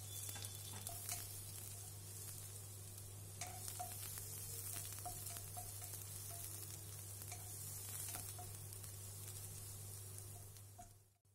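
Sliced onion, shallots, garlic and green chillies frying in hot coconut oil in a pan, a quiet, steady sizzle with a few light clicks over a low hum. The sizzle cuts off just before the end.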